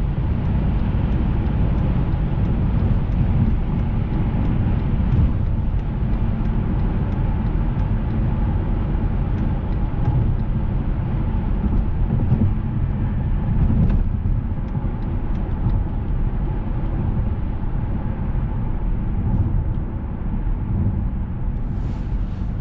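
Steady in-cabin driving noise of a 2007 Mercedes-Benz S600: a low rumble from the twin-turbo V12 and the tyres on the road, with hiss from the road and the air around the car, heard from inside the cabin at an even level throughout.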